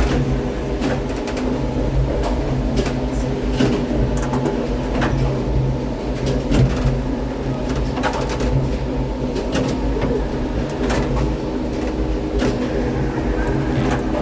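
Gateway Arch tram capsule climbing: a steady mechanical hum with several low tones, overlaid with irregular clicks and rattles.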